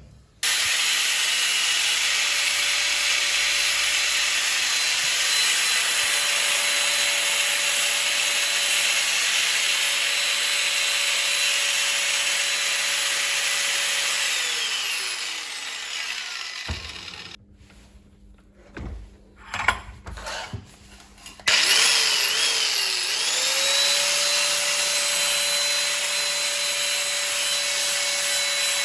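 Electric grinder grinding a steel bicycle axle down into a homemade tool. The motor runs at a steady pitch, winds down about 15 s in, and after a pause with a few knocks spins back up and grinds on.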